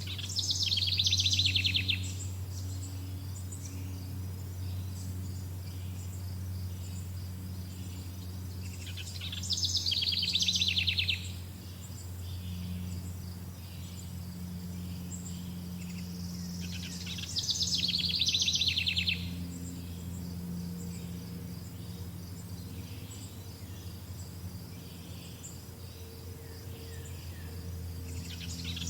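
A songbird sings a short, fast trill three times, about eight seconds apart, over steady high insect chirping and a low constant hum.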